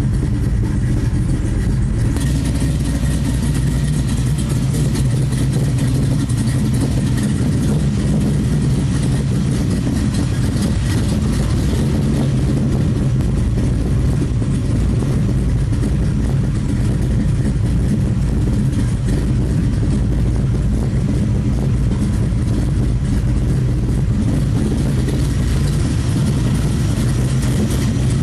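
Cammed Chevrolet LT1 5.7 L V8 idling steadily through Flowmaster Super 40 mufflers, with no revs.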